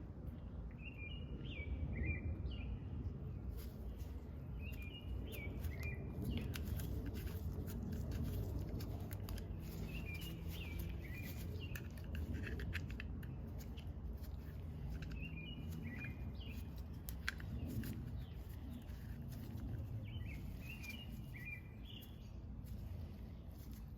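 A songbird singing the same short warbled phrase about every five seconds, over scattered light clicks and scrapes and a steady low background noise.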